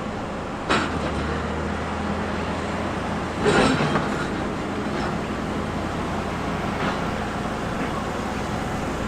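Diesel engine of tracked heavy construction machinery running steadily, with a sharp clank just under a second in and a louder, longer clank about three and a half seconds in.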